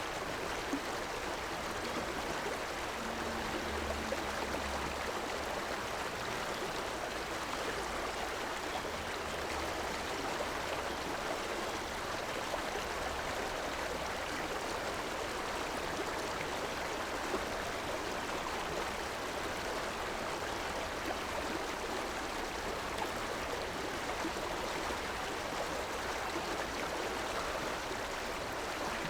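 River water flowing over rocks: a steady, even rushing and babbling of a stream.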